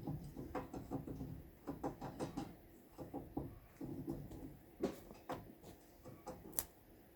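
Irregular clusters of short knocks and clicks, with a couple of sharper clicks near the end.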